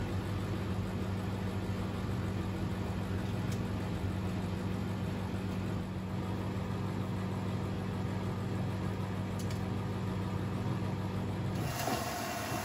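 Privileg 3001 S washing machine running, its three-speed gear motor giving a steady hum. Near the end the sound changes abruptly: the low hum shifts and a higher steady tone comes in.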